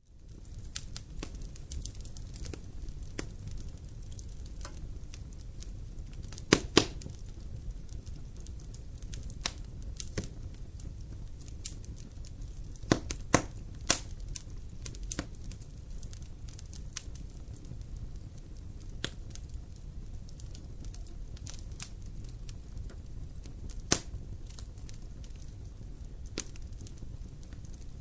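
Wood fire crackling in a fireplace: a steady low rumble with scattered sharp pops and snaps, the loudest a close pair about six and a half seconds in and another near twenty-four seconds. It fades in from silence at the start.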